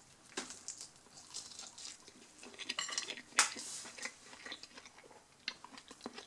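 A person chewing a mouthful of pizza with a crisp crust, with soft crunching and mouth clicks. A sharp click about three and a half seconds in is the loudest sound.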